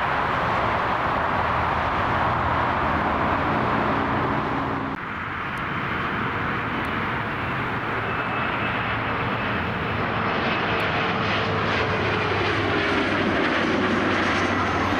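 Airliner engines running loud and steady as a plane passes close by, with a whining tone that slowly falls in pitch over the second half.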